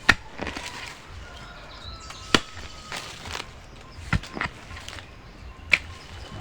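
Digging tool chopping into soil: four sharp strikes spaced about one and a half to two seconds apart, with lighter knocks and scrapes between them.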